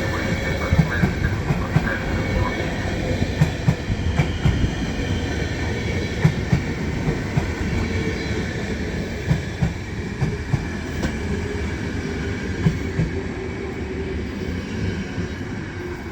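Passenger train rolling slowly past on its way into the station: a steady rail rumble with irregular knocks of wheels over rail joints and a faint steady whine above it. It fades away over the last few seconds.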